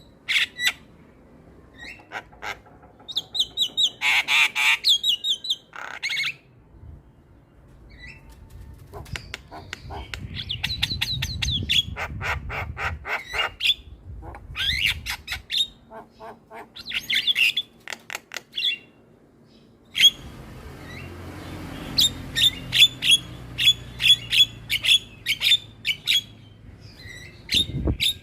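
Starlings (jalak) calling: runs of quick, sharp clicking notes and harsh squawks, with short pauses between phrases and a fast series of clicks near the end.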